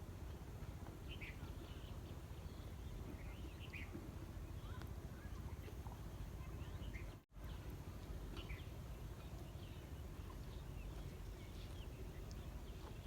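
Outdoor ambience of scattered short bird chirps over a steady low background rumble. The sound cuts out completely for an instant about halfway through.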